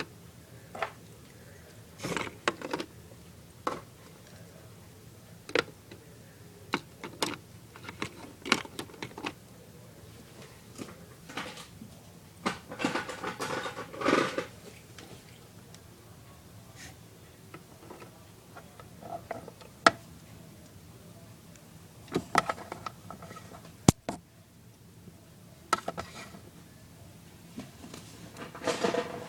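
Plastic toy pieces being handled and fitted together during assembly: scattered clicks and taps, with a denser stretch of handling noise about twelve to fourteen seconds in.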